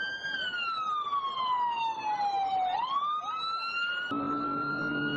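Emergency vehicle siren wailing: one long slow sweep falling in pitch for over two seconds, a quick jump back up, then a slow climb again. A lower steady tone joins about four seconds in.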